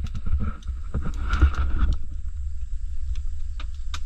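Oak-firewood barbecue fire crackling with scattered sharp pops over a steady low rumble.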